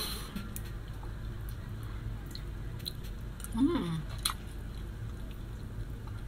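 Close-up mouth sounds of a person chewing food, with small wet clicks and smacks. About halfway through comes a short hummed 'mm' that rises and falls.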